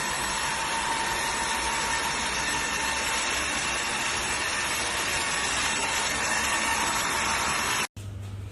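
Cordless wet-and-dry vacuum mop running steadily, a high motor whine over the rush of suction. It stops abruptly near the end.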